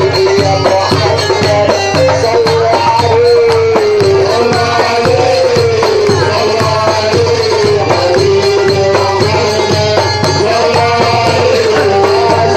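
Live Egyptian folk music from a Port Said simsimiyya band: a wavering melody line over a steady, repeating drum beat.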